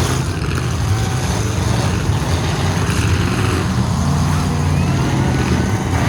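Full-size pickup truck engines running loudly and steadily in a demolition derby, a low engine drone.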